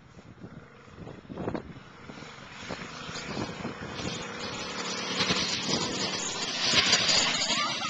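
Mini bike's 6.5 hp Honda-clone single-cylinder four-stroke engine running, growing steadily louder as the bike comes closer, loudest near the end.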